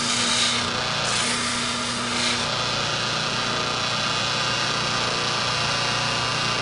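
Electric buffer motor running steadily while a horseshoer's hoof knife is pressed against its compound-loaded felt wheel, giving a rubbing hiss over the motor hum. The hiss swells twice in the first couple of seconds as the blade's belly is worked on the wheel, then holds steady.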